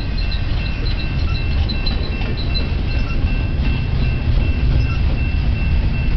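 Slow-moving double-stack intermodal freight train rolling past: a steady low rumble of the well cars on the rails, with a steady high-pitched ring over it and faint light clinks in the first few seconds.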